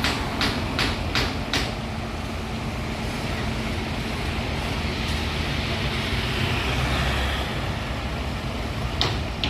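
Isuzu FVR garbage truck's diesel engine running at a stop, with a quick series of sharp clicks about three a second over the first second and a half, then a steady low rumble that swells from about five to seven and a half seconds.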